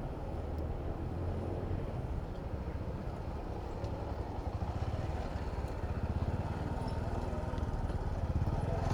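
Steady low rumble of motor traffic heard from a bicycle riding in city traffic, growing a little louder toward the end.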